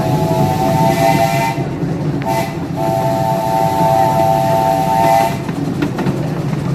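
Live steam locomotive's chime whistle sounding a chord: a long blast that ends about a second and a half in, a short toot, then another long blast ending about five seconds in. Together with the long blast just before, this follows the long-long-short-long grade-crossing signal. Beneath it is the steady rumble and clatter of the moving train.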